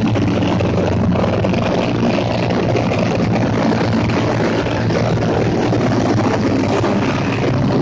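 Motorcycle engines running steadily with an unbroken hum.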